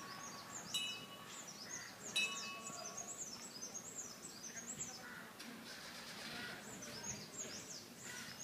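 Small forest birds chirping, with quick high calls repeated throughout. Two sharp ringing notes stand out, one about a second in and another a second later, and these are the loudest sounds.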